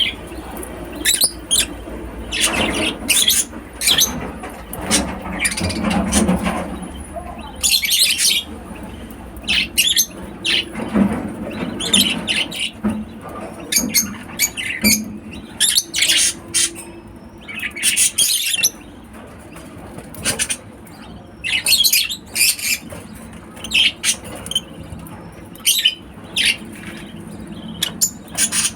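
Lovebirds chirping: many short, shrill calls in quick irregular runs, with a few longer calls among them.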